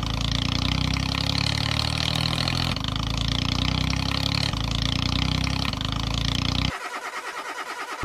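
Tractor engine sound effect running with a rapid, steady chug; it drops to a lighter running sound about two-thirds of the way in.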